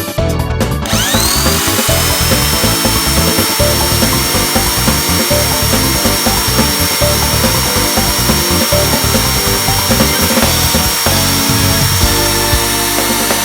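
Vacuum cleaner motor spinning up about a second in, its whine rising and then holding steady as it sucks.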